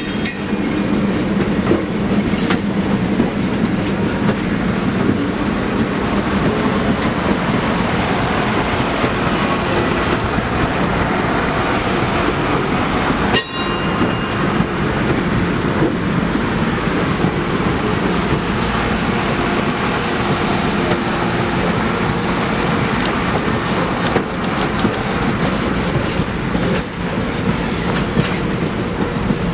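Passenger train running on the rails: a steady loud rumble of wheels and cars, with a brief high metallic squeal about halfway through and faint wheel squeals near the end.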